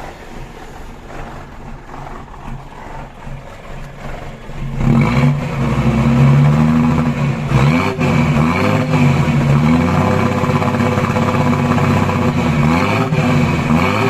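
Mitsubishi Fuso truck's diesel engine being warmed up: it runs at a low idle, then about five seconds in is revved hard and held at high revs, dropping back briefly and climbing again twice.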